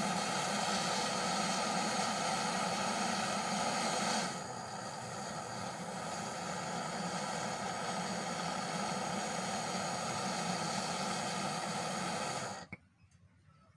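Portable gas torch burning with a steady hiss while brazing copper pipe. It drops slightly in level about four seconds in and cuts off suddenly near the end.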